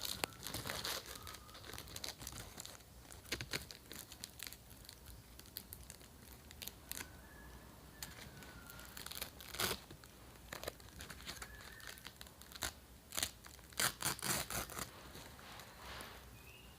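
Plastic wrapper packaging being crinkled and crumpled by hand, giving irregular crackles that come thickest near the end.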